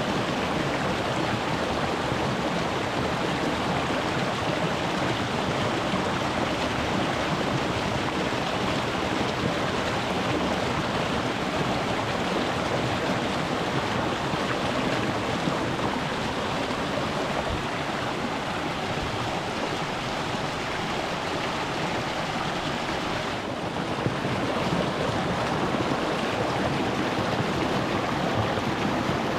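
Water of a small rocky mountain stream rushing and splashing over stones, a steady dense wash of water noise, heard from just above the surface.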